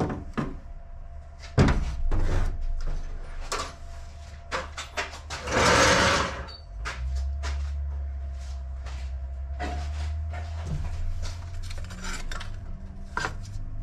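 Metal hand tools and engine parts clinking and clattering in repeated sharp knocks during engine disassembly, with a short rushing noise about six seconds in and a steady low hum under the later part.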